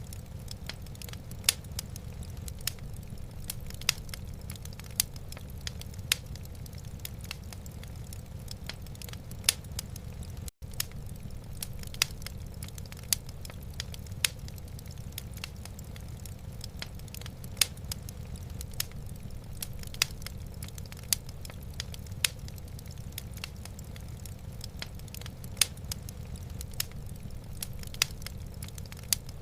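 Wood fire crackling in a fireplace: irregular sharp pops and snaps, a few louder than the rest, over a steady low rumble. The sound cuts out for an instant about ten seconds in.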